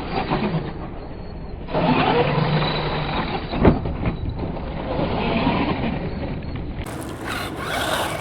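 Electric 1/8-scale RC buggy running on a dirt track, its brushless motor and drivetrain whining under the tyre noise, with one sharp loud thump about three and a half seconds in.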